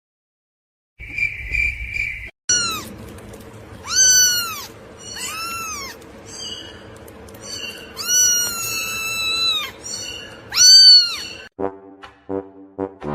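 Domestic cat meowing repeatedly, about six meows rising and falling in pitch. One is long and drawn out, and the loudest comes near the end. Music starts up just before the end.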